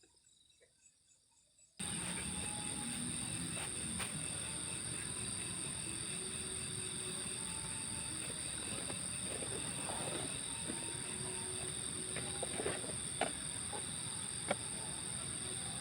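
Crickets chirring in a steady, high-pitched chorus, starting abruptly about two seconds in, with a few faint clicks near the end.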